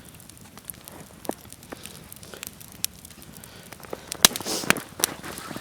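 Campfire burning low on embers, giving off scattered crackles and pops, with a few sharper pops about four seconds in.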